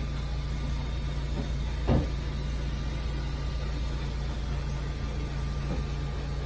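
Steady low hum with a single soft thump about two seconds in.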